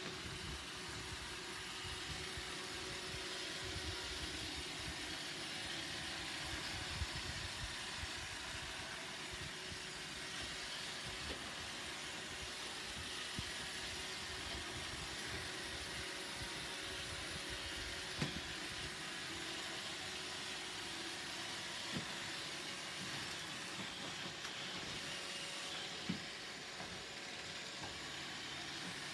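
Roomba robot vacuum running: a steady motor and brush whir with a hiss, and a few brief light knocks several seconds apart.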